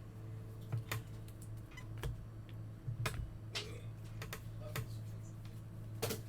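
Trading cards being handled: scattered light clicks and a few short swishes of cards sliding and tapping against each other, over a steady low hum.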